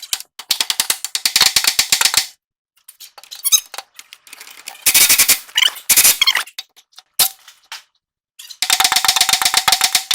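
Impact wrench hammering on a tie rod end nut in several short bursts of rapid blows, with a few loose clicks between bursts.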